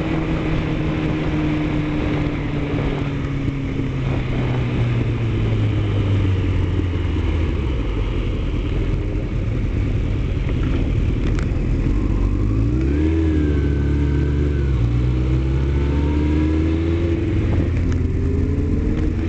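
Vehicle engine running over steady road noise, heard from on board. Its pitch slowly falls for the first several seconds, wavers briefly about two-thirds of the way through, then climbs steadily as the vehicle speeds up.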